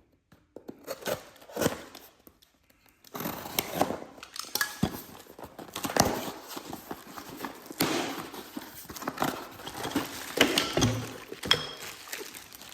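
Hard plastic parts being handled and knocked together: a few clicks, then from about three seconds in a busy run of clunks and taps with rustling. This fits a caster kit being unpacked and handled.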